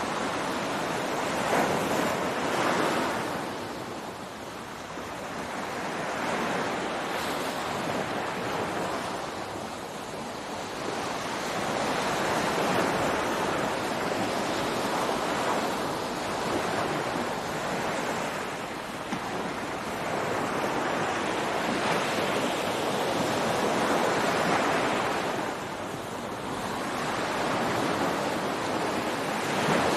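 Ocean surf on a beach: waves breaking and washing in one after another, the rush swelling and easing every few seconds.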